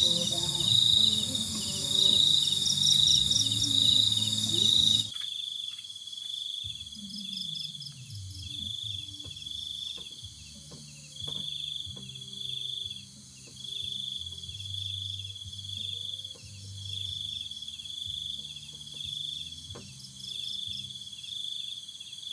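Crickets chirping in a steady high trill that pulses in even beats, with a few faint clicks underneath; the whole sound drops in level abruptly about five seconds in.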